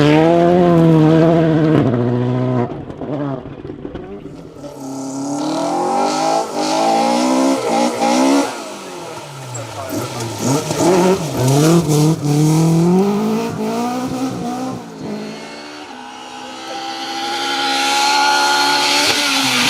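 Rally car engine revving hard, its pitch climbing and dropping again and again through gear changes, fading back twice before surging once more. A hiss of tyre noise rises near the end.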